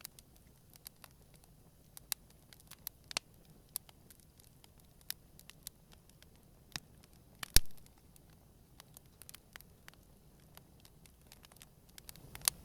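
Wood campfire crackling, with irregular sharp snaps and one loud pop about halfway through.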